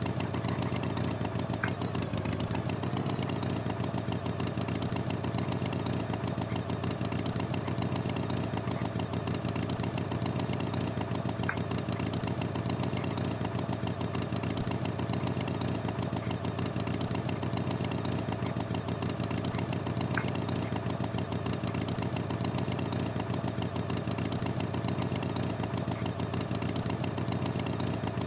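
Tractor engine running at a steady idle-like speed, unchanging in pitch, with a faint click about every nine seconds.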